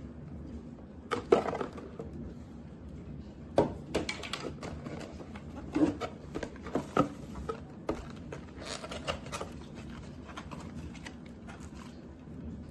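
Scattered clicks, knocks and rustles of objects being handled, loudest about a second in and again around four, six and seven seconds in.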